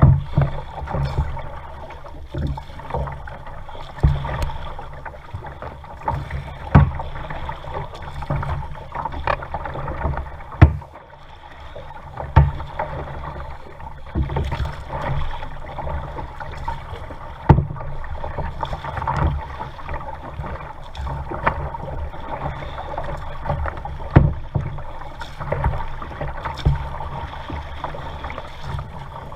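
Kayak being paddled: water sloshing against the hull, with a sharp knock or splash every second or two.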